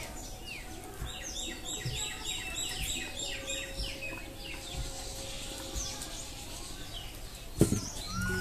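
Small birds singing: many quick high chirps that slide downward, in a fast run of about four a second in the first half. Near the end comes a single sharp knock.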